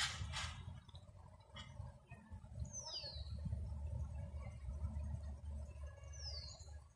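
A bird calling twice, each call a thin high whistle sliding downward, a few seconds apart, over a low rumble.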